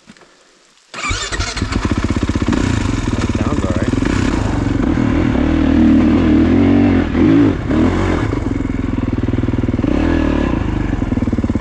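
Kawasaki KX450 motocross bike's single-cylinder four-stroke engine firing back up about a second in after stalling, then idling with a few short blips of throttle. The rider hopes the stall was only from the engine running hot.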